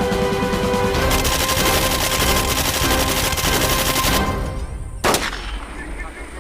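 Rapid automatic gunfire, a dense rattle over background music that fades out after about four seconds, followed by a single sharp bang about five seconds in.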